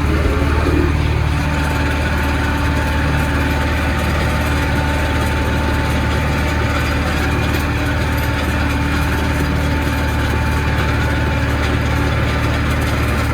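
Zetor 7745 tractor's four-cylinder diesel engine running steadily, with a faint thin whine held through most of it.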